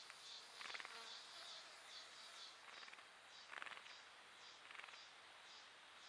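Faint wild animal calls: a high chirp repeating about twice a second, with a short raspy call every second or so.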